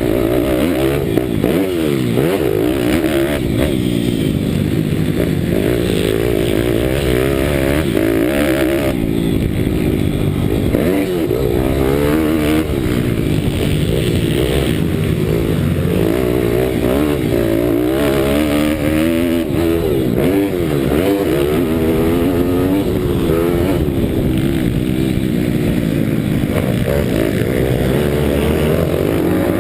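Pitbike's Daytona Anima 190 cc single-cylinder four-stroke engine, ridden hard and heard onboard, revving up and down over and over as the rider accelerates and backs off.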